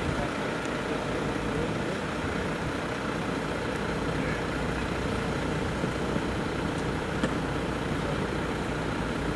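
Steady road-vehicle noise: an engine running with no siren sounding.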